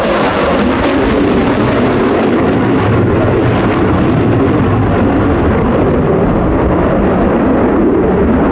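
Loud, steady jet roar of an F-15 fighter's twin turbofan engines. The high hiss fades after the first two or three seconds while the deep rumble carries on, as the jet moves away.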